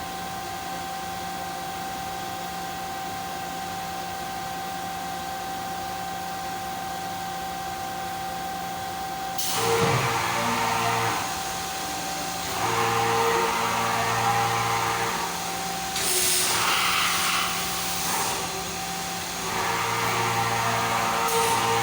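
5-axis CNC machine running: a steady whine for about the first ten seconds, then four spells of louder, noisier running, each a couple of seconds long, with a deep hum under them.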